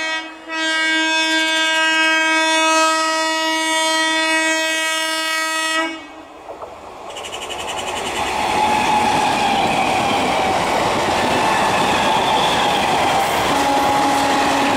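Indian EMU local train sounding its horn: one long steady blast, broken briefly just after the start, that cuts off about six seconds in. Then the noise of the electric train running past on the rails builds and stays loud.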